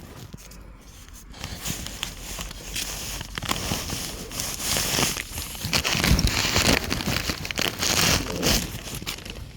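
Irregular rustling and crinkling of roof-space insulation as a person crawls over it, quieter at first and fuller and louder after about two seconds.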